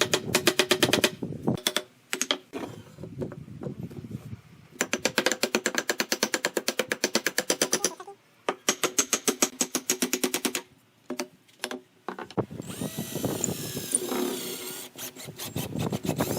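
Power drill working on bamboo: bursts of rapid, even clicking at about ten a second with short pauses between them, then near the end a steady motor whine that wavers in pitch.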